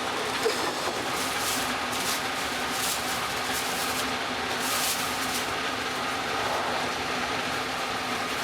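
Train running at speed: a steady rolling noise of wheels on rails, with repeated short hissing swishes.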